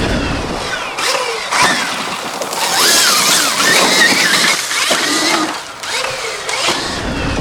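Stark Varg electric motocross bike's motor whining, its pitch rising and falling as the throttle is worked on the trail. A loud rush of noise swells in the middle.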